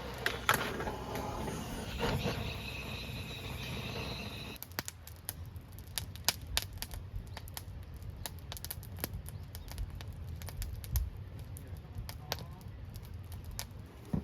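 Firewood crackling in a campfire: irregular sharp pops and snaps, standing out plainly from about five seconds in, once a steady hiss stops.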